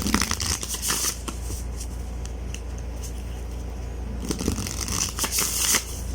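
Oracle cards being handled and drawn from the deck, card stock sliding and flicking in two spells: one at the start and another from about four seconds in, over a low steady hum.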